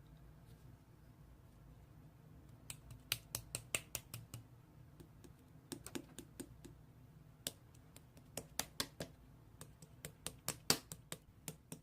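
Keyboard typing: irregular runs of sharp key clicks with short pauses between them, over a faint steady low hum.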